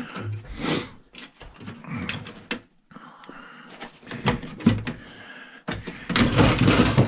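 Cash register parts being handled during a teardown: scattered knocks and clicks of metal and plastic pieces, with a louder, longer clatter near the end.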